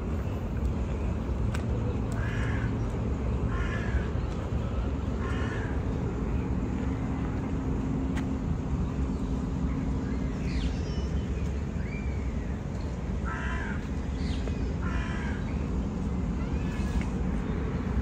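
Harsh bird calls, a short call repeated several times in two bouts, over a steady low outdoor rumble.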